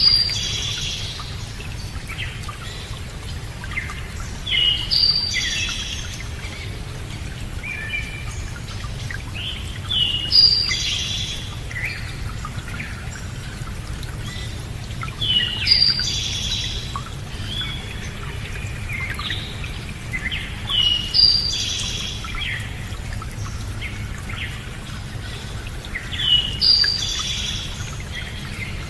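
A songbird singing the same short phrase again and again, about every five seconds, six times in all, over a steady low background rush.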